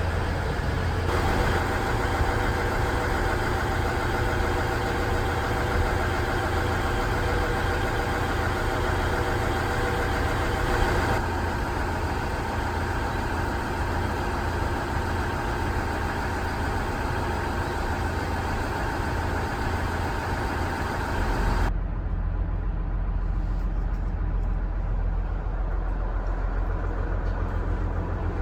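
KiHa 110 series diesel railcar engines running: a steady low drone, with a steady whine on top for the first part. The sound changes abruptly about a second in, about eleven seconds in, and about twenty-two seconds in, where the high end drops away and only the low hum is left.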